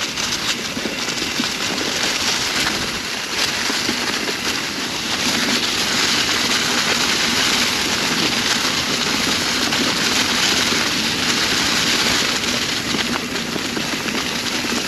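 Mountain bike rolling fast down a trail covered in dry fallen leaves: a steady rushing crackle of tyres through leaves and over rock, growing louder about five seconds in.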